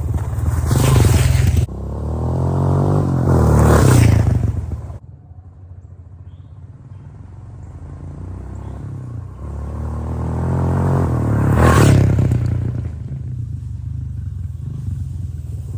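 Honda CRF125 dirt bike's single-cylinder four-stroke engine being ridden, revving up and easing off again and again. It peaks about a second in, around four seconds and around twelve seconds, with a sudden drop at about five seconds and a quieter stretch after it.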